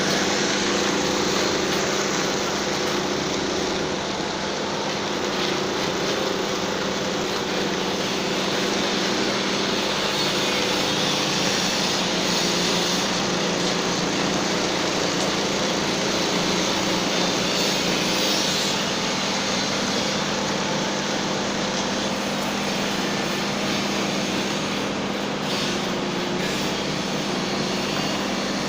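Concrete power trowel (a 'helicóptero') running steadily as it works a floor: a small engine's constant drone with a steady hum and a dense whirring noise over it.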